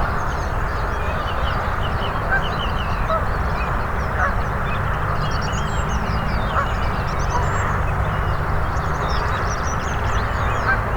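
Outdoor birdsong: many small birds chirping and twittering over a steady low background rumble, with a few waterfowl calls from ducks and geese, the clearest about four and six and a half seconds in.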